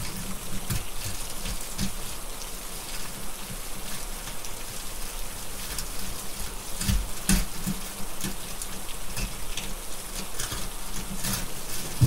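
Steady rain, with scattered sharp crackles from a wood fire, a couple of louder ones about seven seconds in.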